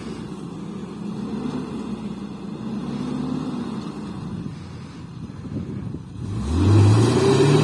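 Off-road vehicle engine running steadily, then revving up hard about six seconds in, its pitch climbing as it goes under load.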